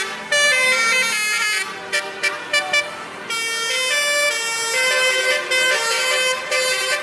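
Truck-mounted basuri musical air horns playing a melody, one pitched note after another, with a short run of quick staccato blasts about two to three seconds in.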